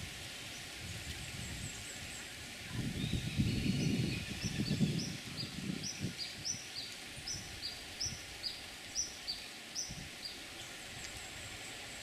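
Tropical forest ambience with a steady high hiss, in which a bird calls a quick run of short, high, falling notes, two or three a second, for about five seconds from midway. A brief low rumble comes a few seconds in.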